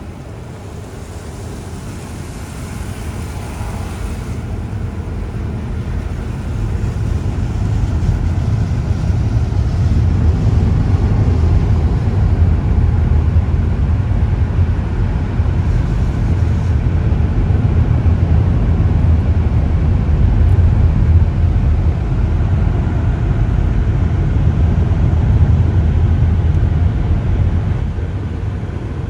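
Automatic car wash machinery running, a steady low rumble that swells over the first ten seconds or so and then holds, with brief hissing about two seconds in and again about sixteen seconds in.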